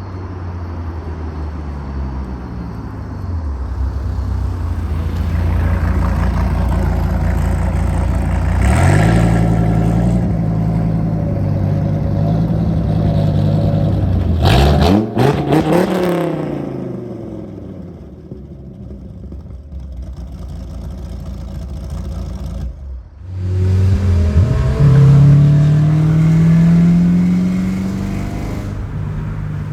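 1999 Dodge Viper RT/10's 8.0-litre V10 through a Corsa cat-back exhaust with no catalytic converters, revving and accelerating hard. The pitch climbs and falls away several times, with a short sharp lift about two-thirds of the way through before it pulls up strongly again.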